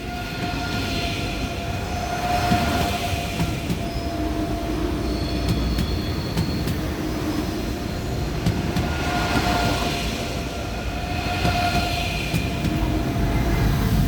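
Class 406 ICE 3 high-speed train moving slowly at the platform: a steady rumble with a high steady tone from the running gear and a few sharp clicks of wheels over rail joints about halfway through.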